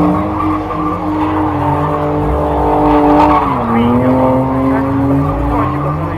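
BMW E30 engine held at high revs, its pitch dropping a step a little past halfway, with tyre squeal.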